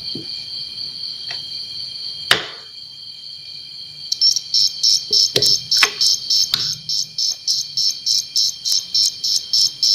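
Electronic cricket sound from a 555-timer oscillator circuit with a TDA2822 amplifier. It gives a steady high-pitched tone for about four seconds, then switches to rapid pulsed chirping at about four chirps a second, with a few faint clicks in between.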